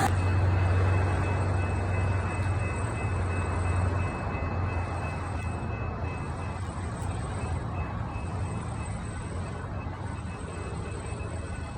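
A train rumbling with a low engine hum, slowly fading as it moves away.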